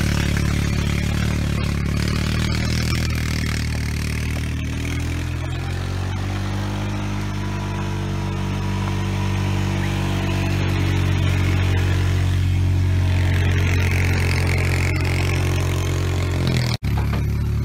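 Off-road utility vehicle's engine running under load while it pulls a land planer through ditch dirt. The engine pitch drops a few seconds in and then holds steady. The sound cuts out for an instant near the end.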